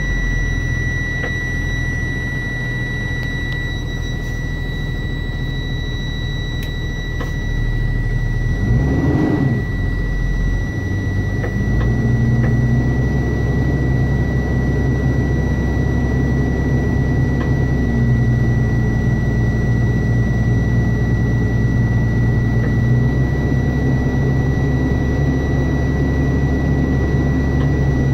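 Cummins ISB 6.7 diesel in a 2016 Thomas Saf-T-Liner C2 school bus idling shortly after a cold start. About nine seconds in the engine speed briefly rises and falls, and a few seconds later the idle steps up to a louder, steadier note. A thin high whine sits over it.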